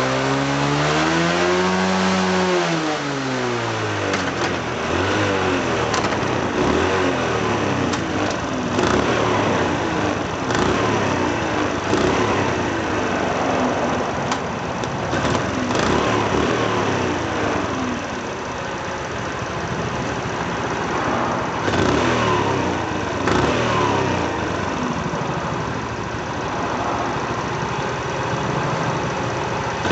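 Honda Super Cub 90's small single-cylinder four-stroke engine running and being revved over and over, its pitch swelling up and dropping back, with a few sharp clicks along the way.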